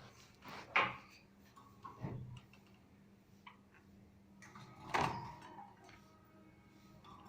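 Pet lovebirds making a few short, sharp chirps and clicks, spaced a second or more apart, with the loudest near the start and about halfway through, over a faint steady hum.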